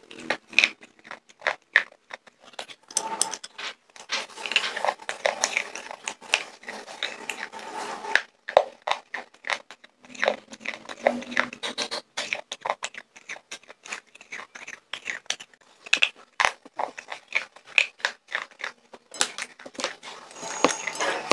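Close-miked biting and chewing of something hard and brittle: a run of sharp, irregular crunches with short pauses.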